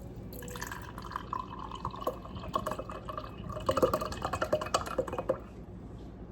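Pineapple juice pouring from a can into a measuring cup for about five seconds, then stopping.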